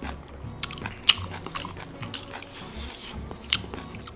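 Close-up eating sounds: chewing and wet mouth smacks, with a few sharp clicks, the loudest about a second in and again near the end.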